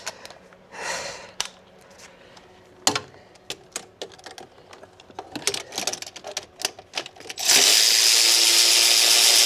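Scattered clicks and clinks of hand tools and metal parts, then a power tool running steadily for about two seconds near the end.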